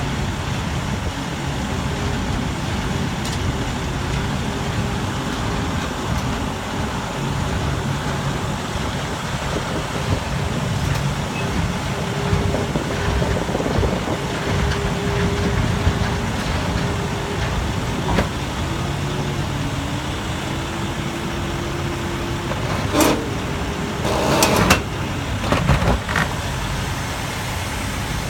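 Large engine running steadily, its pitch wavering up and down a little, with several sharp knocks near the end.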